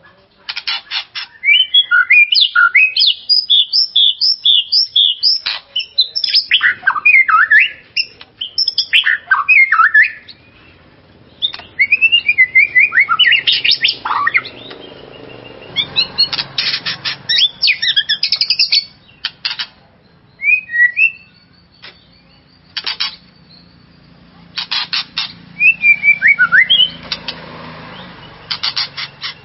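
White-rumped shama (murai batu) in full song: loud phrases of rapid, rising and falling whistled notes mixed with fast rattling trills, separated by short pauses.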